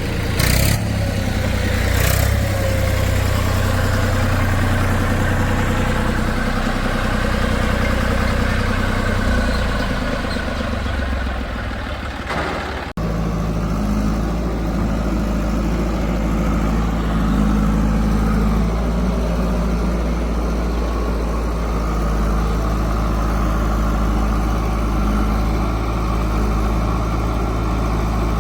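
Diesel engines of a backhoe loader and tractors running steadily, with a few short knocks in the first couple of seconds and another a little before the sound changes abruptly, about thirteen seconds in, to a different steady low drone.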